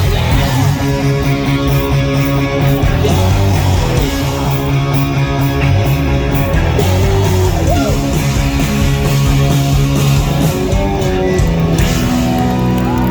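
Live rock band playing loud and steady, with distorted electric guitars holding chords.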